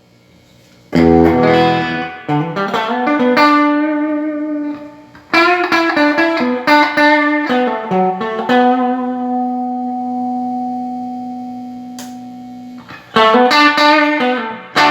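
Electric guitar played through a freshly repaired Yamaha T100C amplifier, working again: a chord struck about a second in, picked notes and short phrases, one long note left ringing and slowly fading, then more notes near the end.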